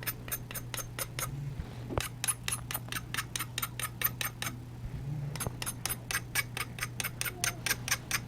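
Exacto knife blade scraping a composite charcoal stick in quick, even strokes, about five a second, shaving charcoal dust onto the paper. The strokes pause briefly twice, over a steady low hum.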